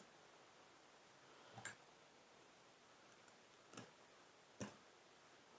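Three faint metallic clicks, spread apart, as a hand tool works old graphite packing out of a frost-free yard hydrant's packing area.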